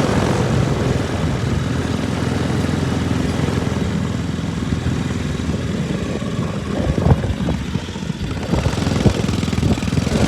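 Ride-on lawn mower's engine running steadily, with a few knocks and rattles about seven to nine seconds in.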